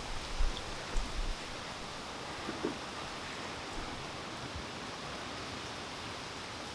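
Steady rain falling, an even hiss of drops on the ground. A few low thumps come in the first second and a half, and a faint drip-like tick follows a little later.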